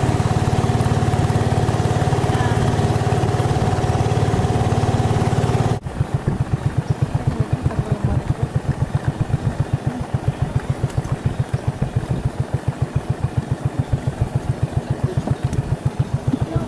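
An engine running steadily; about six seconds in the sound cuts abruptly to an engine throbbing at about five beats a second.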